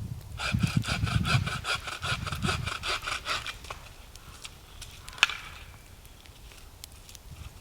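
Hand saw cutting wood in quick, even back-and-forth strokes for about three seconds, then one sharp knock or crack about five seconds in.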